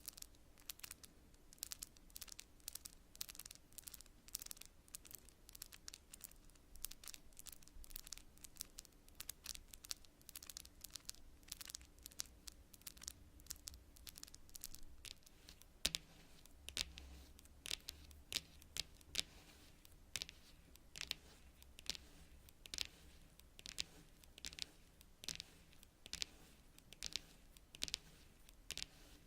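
Long natural fingernails tapping on cards: quick, crisp, irregular clicks, dense in the first half and settling into more spaced taps later on.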